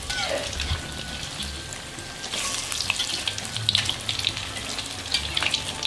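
Battered tempe gembus deep-frying in hot oil in an aluminium wok: a steady sizzle full of quick crackles and pops.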